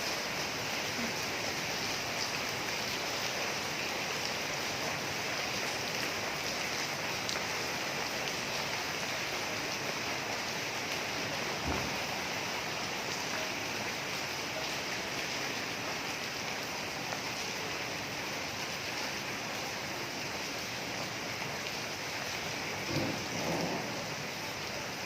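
Rain falling steadily, an even wash of sound, with a brief knock about halfway through and another short sound near the end.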